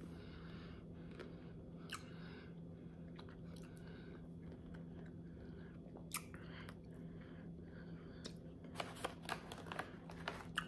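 Faint chewing of a frozen chocolate-covered blueberry: soft crunches and mouth clicks, most of them near the end, over a steady low hum.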